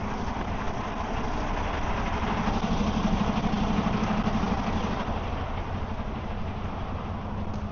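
Semi truck's diesel engine idling steadily, getting a little louder for a couple of seconds in the middle.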